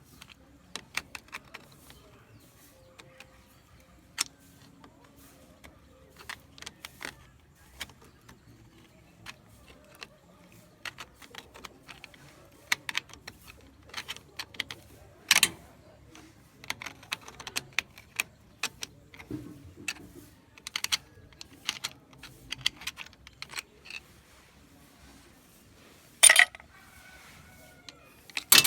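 Small metal parts and tools clinking and clattering in irregular handling, with two louder metallic knocks about halfway through and near the end.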